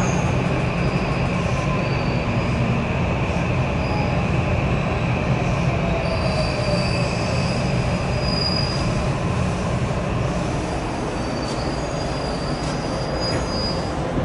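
Electric commuter train (JR West 323 series) heard from inside the car as it gets under way and runs over curving track: a steady running rumble, joined from about six seconds in by a thin, high wheel squeal on the curve.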